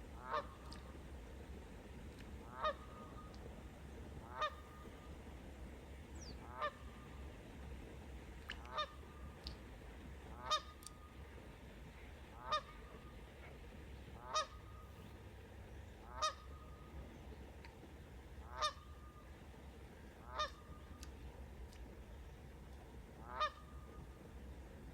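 A goose honking repeatedly, one short call about every two seconds, with faint chirps of small birds in between.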